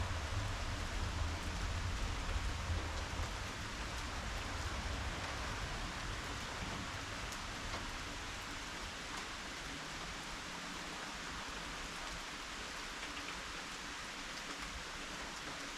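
Steady rain falling, a constant hiss with faint scattered drop ticks. A low rumble under it in the first half fades out about halfway through.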